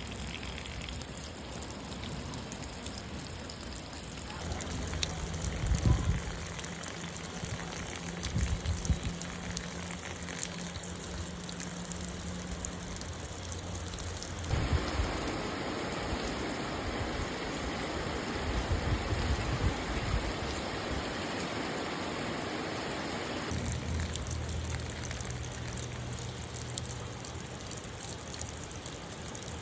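Rain falling steadily, a continuous patter of drops with trickling water and a few low thumps. Its character shifts abruptly three times.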